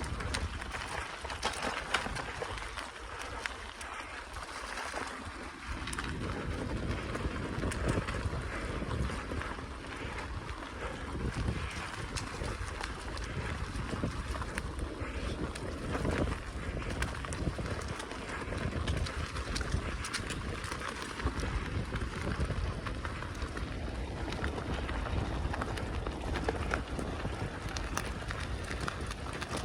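Wind buffeting the microphone over the rumble of a bicycle riding along a forest track, with many small clicks and rattles throughout.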